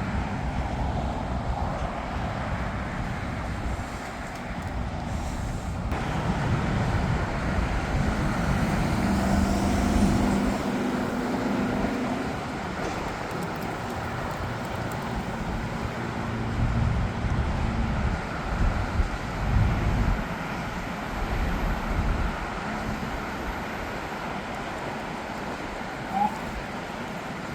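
Road traffic rumbling past, with louder swells as heavier vehicles pass twice, and a short click near the end.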